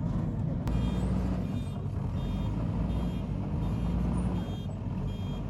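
Diesel engine of a JCB 116D vibratory road roller running steadily, with its reversing alarm beeping about once every 0.7 seconds from about a second in, as the machine backs up.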